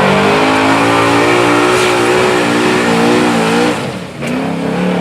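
1999 Ford F-250 pickup's engine at full throttle under heavy load, pulling a weight sled, its pitch wavering as it strains. Shortly before the end the engine note drops off sharply, comes back in one short burst, then drops again as the run ends.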